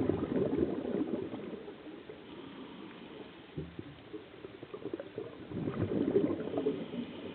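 Scuba diver's exhaled air bubbling out of the regulator underwater: two bursts of gurgling bubbles, one at the start and another about five and a half seconds in.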